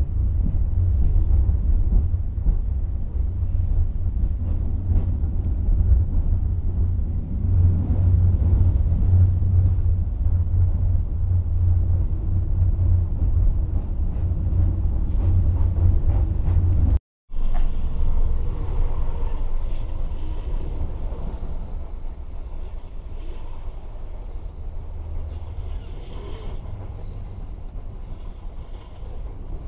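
Passenger train running along the track: a steady low rumble that breaks off for a moment about 17 seconds in, then returns with less low rumble and fades gradually toward the end.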